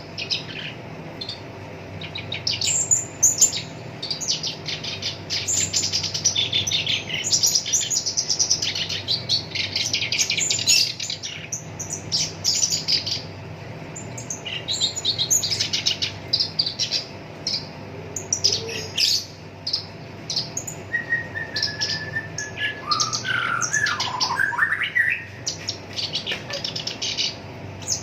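Black-browed reed warbler singing a fast, harsh chattering song of rapid-fire notes in bursts with brief pauses. A few lower whistled notes falling in pitch come about three-quarters of the way through.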